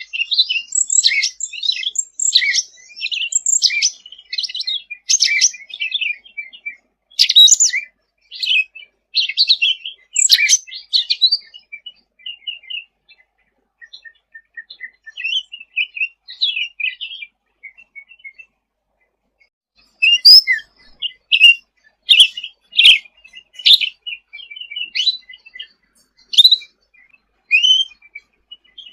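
Cucak ranting (cucak rante) songbird calling in a rapid, high chattering song. It is dense for the first dozen seconds, thins to scattered twitters, and turns to sharp short chips from about twenty seconds in.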